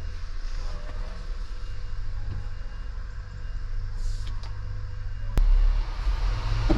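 Lorry's diesel engine running steadily at idle, heard from the cab. About five seconds in there is a sharp click, and the engine then gets louder.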